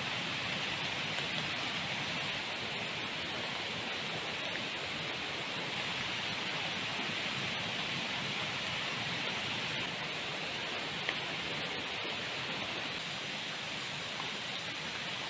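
Heavy rain falling steadily, an even hiss with a few faint ticks.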